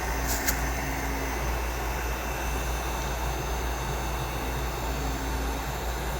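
Heat gun blowing steadily: a constant rush of air with a low hum. Two short clicks come about half a second in.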